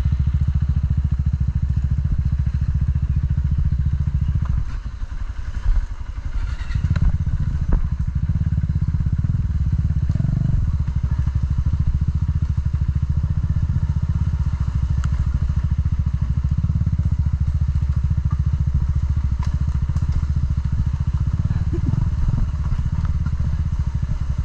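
Single-cylinder off-road motorcycle engine running at low speed on a slippery mud trail, the engine note dropping for a couple of seconds about five seconds in, then picking up again, with a few light clatters.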